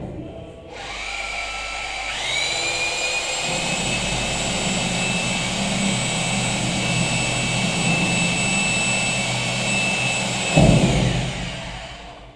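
A high-speed electric power tool spins up with a rising whine and runs at a steady high pitch for about nine seconds, then winds down. A loud low thump comes just before it runs down.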